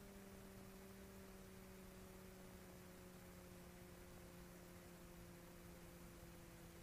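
Near silence: a faint, steady low hum of a few tones, drifting very slightly lower in pitch, over faint hiss.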